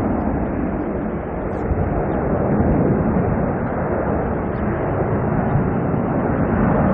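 Jet airliner engines, a steady loud rumble that swells slightly and eases.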